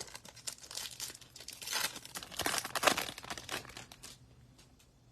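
Foil wrapper of a trading-card pack crinkling as it is torn open and handled, a dense crackle that peaks a little before three seconds in and stops about a second before the end.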